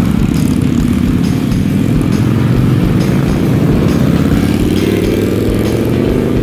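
Motorcycle engine running under way, its pitch rising through the second half as it accelerates.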